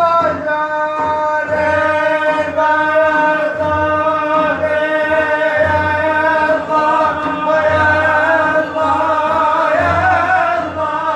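A male voice sings a madih, an Islamic praise song, holding one long note for nearly the whole stretch, with a slight waver and small ornaments in the pitch.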